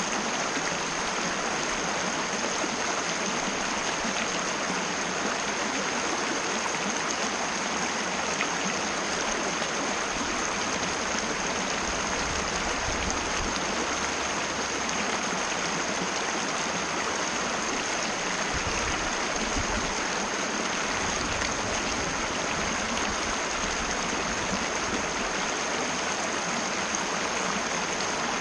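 Mountain river flowing, a steady even rush of water.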